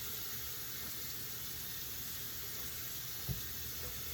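Steady background hiss with a single soft low thump about three seconds in.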